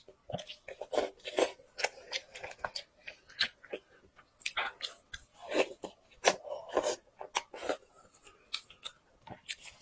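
A person eating close to the microphone: chewing with irregular, rapid crunches and clicks.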